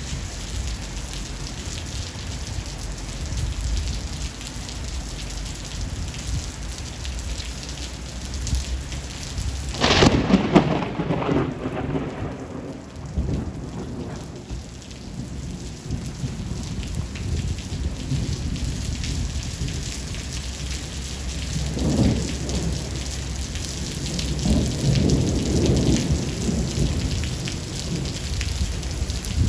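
Steady heavy rain with thunder: a sharp, loud thunderclap about ten seconds in that rolls off into a fading rumble over several seconds, then more rolls of rumbling thunder in the second half.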